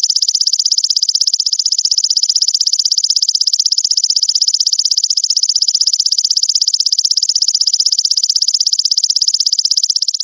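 Belalang mas grasshopper stridulating: a continuous, high-pitched, rapidly pulsing buzz at an even rate.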